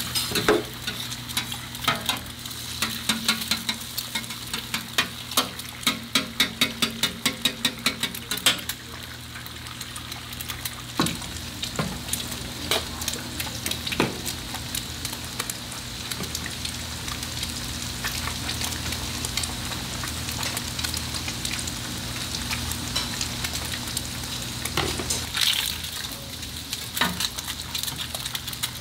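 Hamburger ingredients frying on a hot griddle, a steady sizzle over a low hum. Quick sharp metal clicks and taps come thick and fast for the first eight seconds or so, only now and then in the middle, and again near the end.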